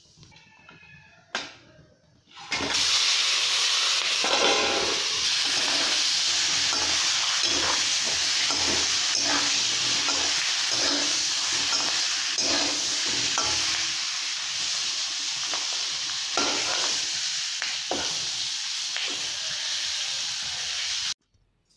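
Green chillies frying in hot oil in a steel kadai: a loud, steady sizzle starts suddenly a couple of seconds in, with the scrape of a spatula stirring the chillies against the pan, then cuts off suddenly near the end.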